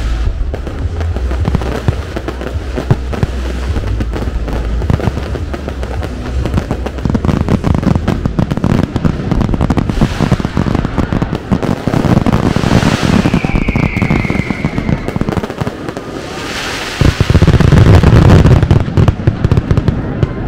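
Fireworks display: dense, continuous crackling and popping of aerial shells, with a falling whistle about two-thirds of the way through and the loudest volley of bursts near the end. Show music plays underneath.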